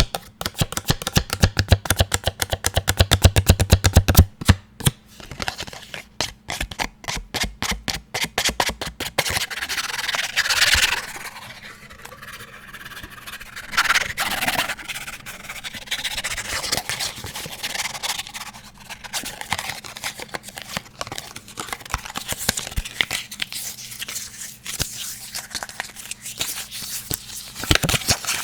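Fast, even tapping on hard objects, about ten taps a second, for the first several seconds, then scratching and brushing that runs through most of the rest, with a short run of tapping again near the end.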